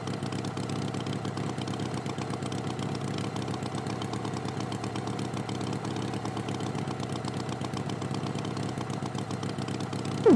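Engine idling steadily, a fast even chugging that holds the same pitch and level throughout.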